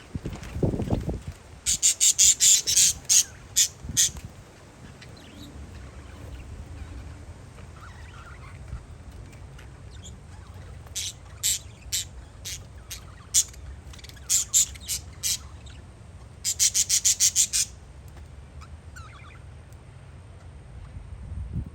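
Parakeets giving harsh, high squawking calls in quick runs of several calls, three or four bouts with pauses between. A steady low rumble of wind or distant aircraft lies underneath.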